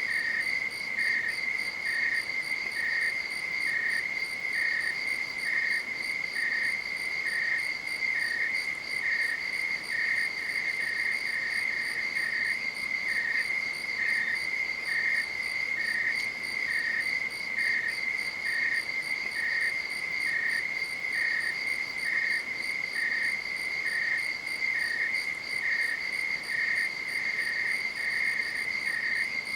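Crickets calling at night: one steady, unbroken high trill, with a second chirp pattern just below it repeating about once a second.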